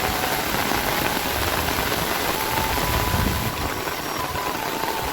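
Heavy rain falling in a storm, a steady dense hiss, with a brief low rumble about three seconds in.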